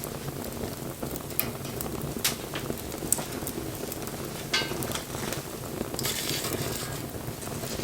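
Wood bonfire burning: a steady low rush of flame with irregular crackles and sharp pops, and a short hissing spell about six seconds in.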